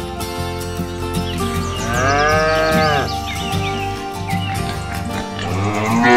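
Cow mooing twice over background music: one long moo that rises and falls about a second and a half in, and a second moo starting near the end. The moos are a sound effect laid over the music.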